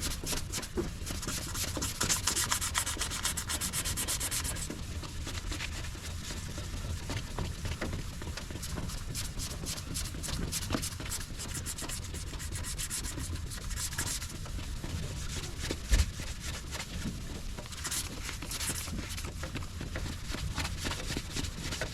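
Sandpaper scrubbing back and forth across a plastic headlight lens in quick repeated strokes, harder for a few seconds near the start and again around the middle. There is a single dull thump about three-quarters of the way through.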